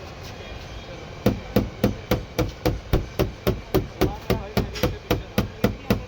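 Hammer tapping steadily on a car door's sheet metal, about four blows a second, each with a short metallic ring, starting about a second in: denting work on the door panel.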